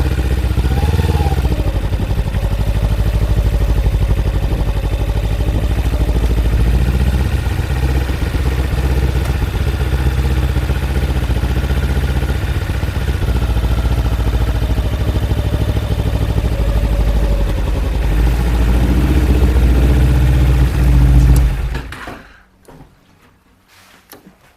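Kawasaki Ninja 250 motorcycle's parallel-twin engine running at low speed with a few small rises and falls in revs, then cutting off suddenly near the end, leaving only a few faint clicks.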